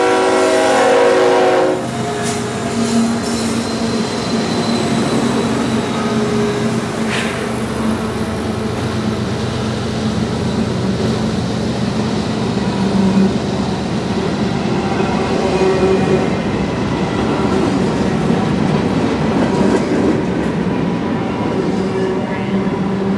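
A CSX diesel freight locomotive's horn sounds a chord that cuts off about two seconds in. It is followed by the locomotives' engines and the steady rolling of a doublestack container train's wheels on the rails as the cars pass close by.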